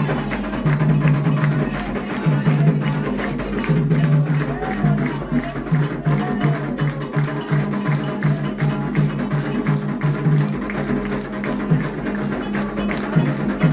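Live ritual percussion: hand drums and a struck wooden or bell-like instrument playing a fast, steady rhythm, with voices singing over it.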